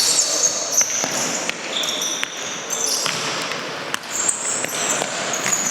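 Indoor futsal play in an echoing sports hall: players' shoes squeaking on the court floor and the ball being struck, with several sharp knocks.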